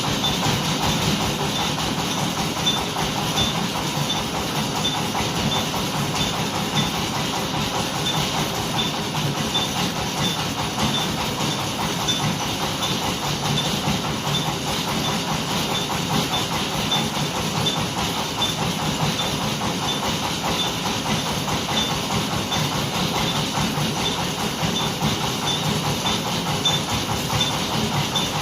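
An engine running steadily under load while the fishing boat is hauled up the slipway on its second try, with a faint regular high ticking about twice a second.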